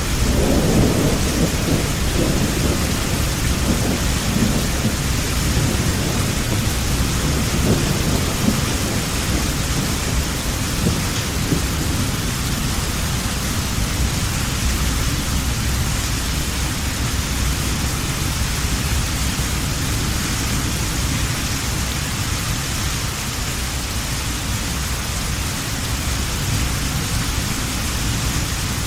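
Steady heavy rain hissing, with a low thunder rumble at the start that slowly dies away over the first ten seconds or so.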